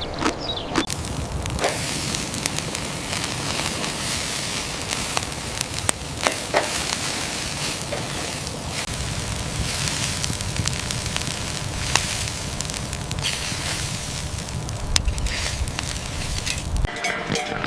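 Steady hissing with many scattered sharp crackles and pops throughout.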